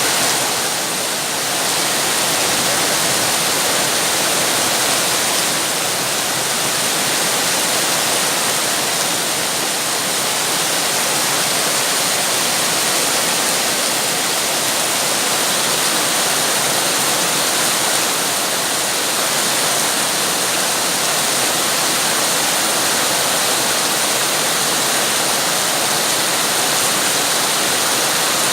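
Heavy rain falling as a steady, dense hiss with no single drops standing out.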